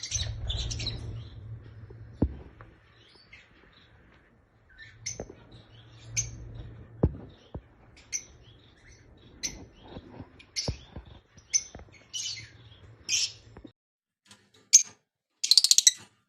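Lovebirds chattering in short, high chirps and squeaks, scattered and irregular, with a few sharp clicks and a faint low hum underneath that stops near the end. The uploader presents the calls as lovebird mating calls.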